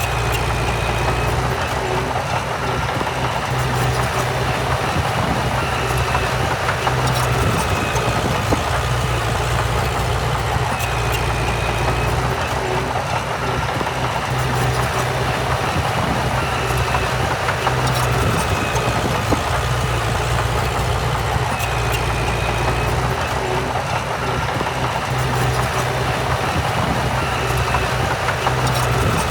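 Heavy diesel engine of earthmoving machinery running steadily with a low drone, along with a faint short high note that repeats about every five seconds.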